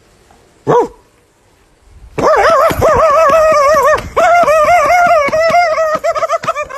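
An animal calling: one short cry just under a second in, then from about two seconds in a long, loud cry whose pitch wavers up and down rapidly, broken once briefly partway through.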